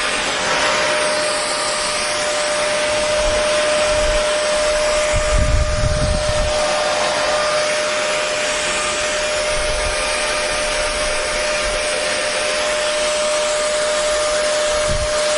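Hair dryer running steadily: an even rush of airflow with a constant motor whine. A brief low rumble swells in about five seconds in.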